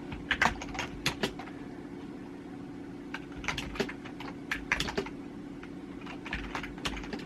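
Typing on a computer keyboard: irregular bursts of key clicks, over a steady low hum.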